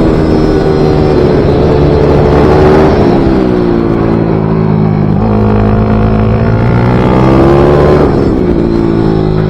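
Small minibike racing engine running hard at high revs; its note falls sharply about three seconds in and again near the end, then climbs back.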